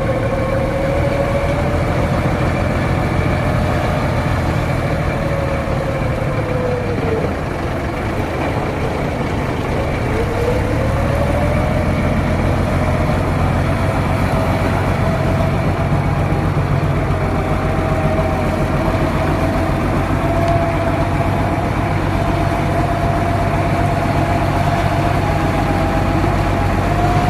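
An engine running steady and low; its pitch falls about seven seconds in, then picks up again a few seconds later and holds.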